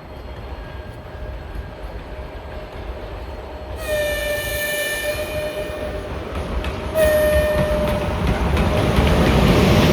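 EP1M electric locomotive's horn sounding two blasts, a long one about four seconds in and a shorter one about three seconds later. The train's running noise grows louder as it approaches.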